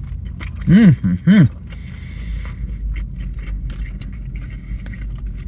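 A man humming "mmm" twice in approval while chewing a mouthful of cheesesteak, with faint chewing clicks, over a steady low rumble.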